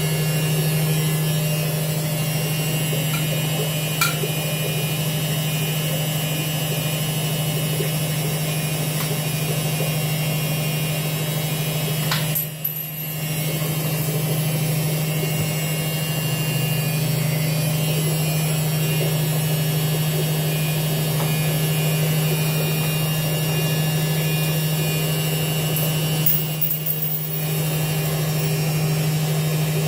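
Washing machine running with a steady hum, with a sharp click about four seconds in and two brief dips in the sound.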